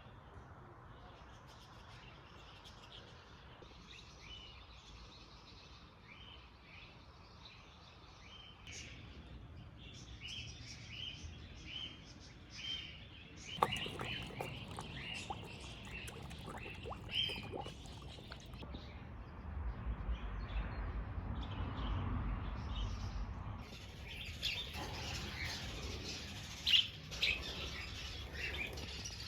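Wild birds chirping and calling in many short notes throughout, growing louder and busier in the second half. A cluster of sharp clicks comes about halfway through, followed by several seconds of low rumble.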